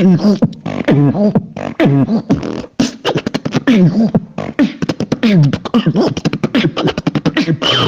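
A high-pitched, cutesy anime-girl-style voice chattering rapidly in short syllables that swoop up and down in pitch, with no clear words, ending in a falling squeal.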